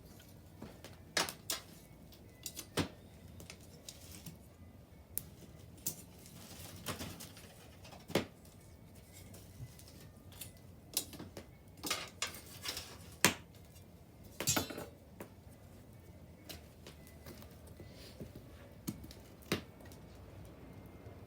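Burning wood in a bonfire crackling: irregular sharp pops and snaps, some louder than others, scattered over a faint background hiss.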